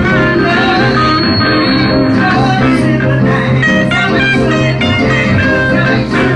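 Live church band music led by an electric guitar playing bending, bluesy lines over a steady bass.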